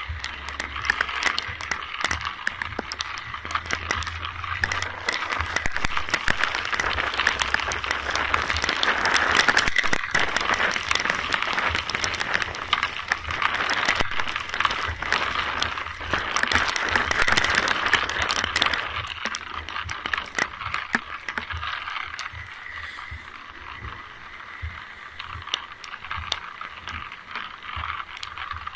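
Steady rain falling, a dense hiss full of tiny drop ticks. It swells in the middle and eases off in the last third, with a low rumble underneath in the first few seconds.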